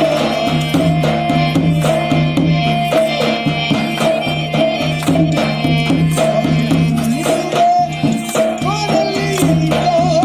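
Live Rajasthani folk music for a Kalbeliya dance: hand drums and a jingling frame drum keep a steady beat under a wavering, ornamented melody held over a steady drone.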